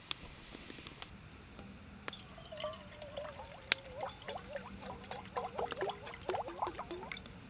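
Water pouring and gurgling into a container, starting about two and a half seconds in, with a sharp click partway through.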